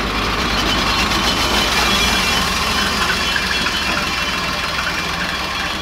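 Willys Jeep engine idling steadily.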